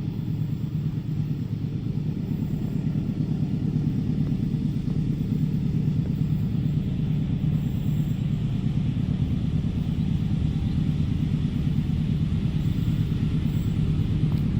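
Train passing at a level crossing: a steady low rumble that grows slightly louder.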